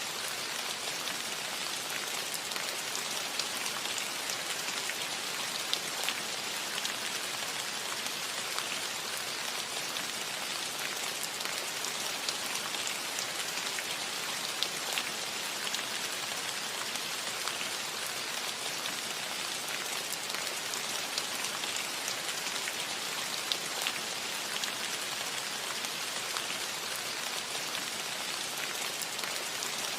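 Steady rain falling on a cottage roof: an even hiss with many small scattered drop ticks.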